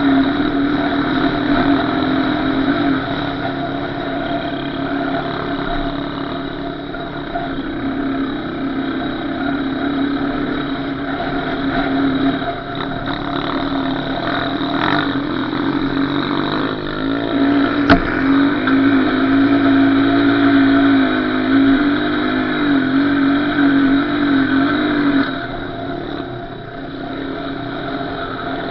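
Small off-road engine running while being ridden, its pitch rising and falling with the throttle, with a sharp knock about two-thirds of the way through. The engine eases off near the end, then picks up again.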